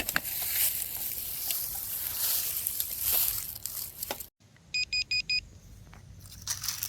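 Rustling, scraping noise with a few clicks. After a brief break come four quick high beeps from a metal detector signalling a metal target in the ground.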